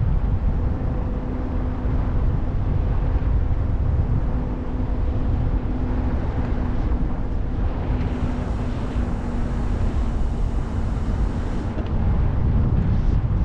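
Wind buffeting the microphone of a camera riding on a moving e-bike, with a steady low hum underneath that fades out near the end.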